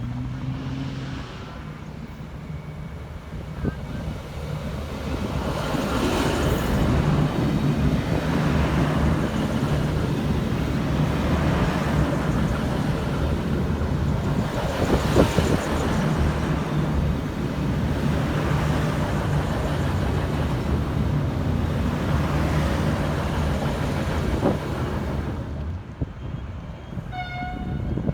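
A train passing, with a steady low engine drone and a broad rumble that builds after a few seconds, holds, and fades away near the end. A short single horn note sounds just before the end.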